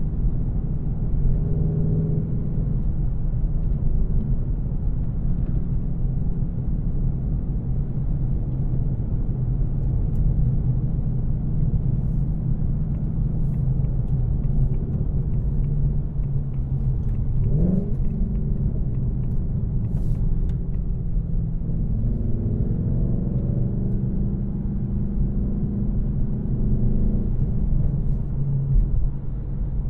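2024 Mustang GT's 5.0-litre V8, still on its stock headers, running steadily as the car is driven. About two-thirds of the way through there is a quick rev that rises sharply, and near the end the engine pulls harder for a few seconds before settling back.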